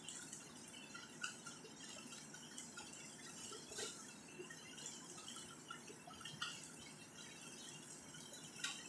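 Shredded chicken frying in a little coconut oil in a pan: a soft, steady sizzle with scattered small crackles and a few louder pops.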